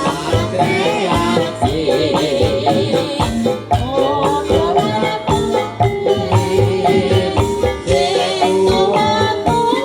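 Live jaranan dangdut music: drums beating steadily under bending melodic lines, with shaken percussion.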